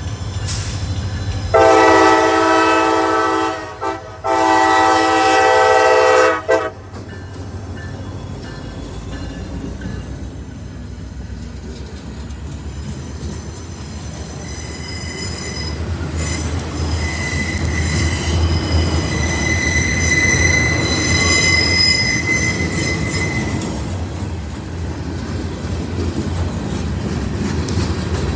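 Freight locomotive's air horn sounding two long chord blasts as it nears the crossing, then the freight cars rolling past with a steady rumble. A steady high wheel squeal rises over the rumble for several seconds about halfway through.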